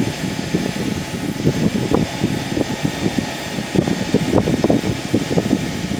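Wind buffeting the microphone in irregular low gusts and flutters, over a steady background hum.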